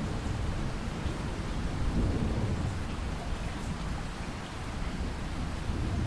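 Thunderstorm: steady rain falling, with a low rumble of thunder underneath that swells about two seconds in.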